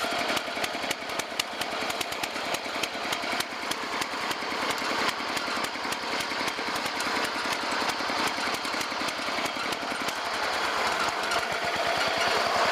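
Small gasoline engine running steadily with a rapid, even firing beat, just after a cold start following months of sitting unused since November.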